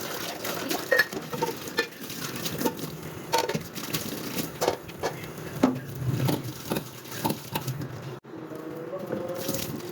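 Irregular light clicks, taps and rustles of small objects being handled, with a sudden break about eight seconds in.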